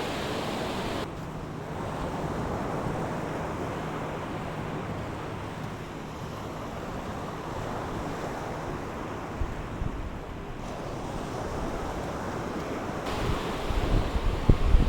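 Steady wash of sea surf on a beach. Wind gusts buffet the microphone, rumbling more and more toward the end, and a faint low hum runs under the surf for the first few seconds.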